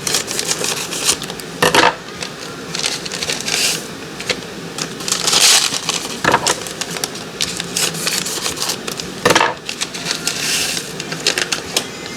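Foil packets of dry onion soup mix crinkling and rustling as they are opened and emptied, with a few sharper crackles and longer hissing stretches.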